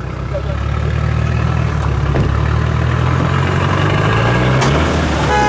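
Off-road 4x4 engine running hard under load during a recovery pull, its note rising slightly. About four and a half seconds in there is a single sharp crack and the engine note drops away: a half shaft snapping.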